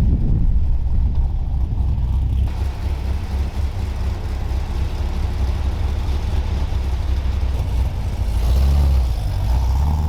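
A car's engine and exhaust running with a strong low hum, heard from inside a moving car, growing louder about eight and a half seconds in.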